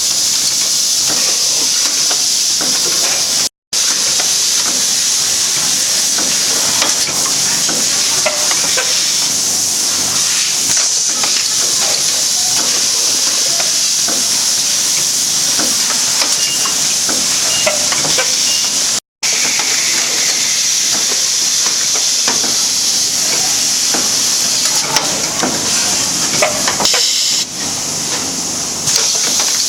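Automatic tea vacuum packing machine running: a steady loud hiss with many small clicks and knocks from the mechanism. The sound cuts out completely twice, very briefly.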